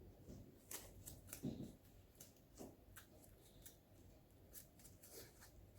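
Faint handling noises: scattered small clicks and rustles, with a few soft low bumps.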